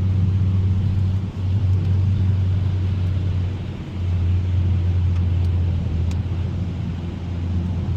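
Steady low drone of a 2021 Mazda 3 Turbo cruising, its turbocharged four-cylinder engine and tyre noise on a wet road heard from inside the cabin.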